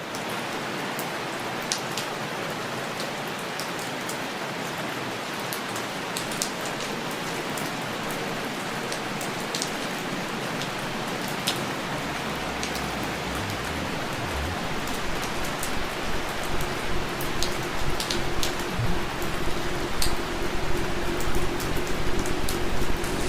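Steady rain falling, with scattered individual drops clicking sharply over the hiss. A low rumble comes in about halfway through and grows louder toward the end.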